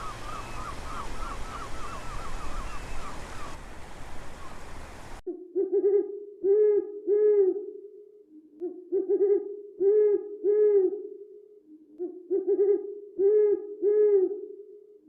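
A bird's low hooting calls, delivered in three phrases of several notes each. Before them, a rapid run of higher chirping notes over outdoor background noise, which breaks off abruptly.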